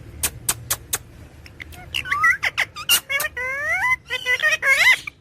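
A parrot giving a run of whistled calls that swoop up and down in pitch, preceded by four sharp clicks in the first second.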